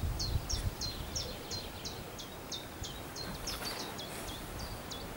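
A small bird singing a long run of short, high, downward-slurred notes, about three a second, over a low background rumble.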